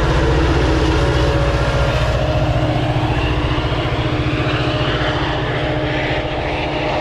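Diesel locomotive of a Metra commuter train running close by, a loud steady engine throb with a fast low pulse and a steady hum above it.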